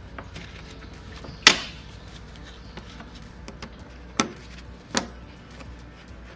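Sharp clicks and knocks of a hand tool and screws as fasteners are taken out of a motorcycle's plastic fairing panel. The loudest knock is about a second and a half in, with two more about four and five seconds in and faint ticking between.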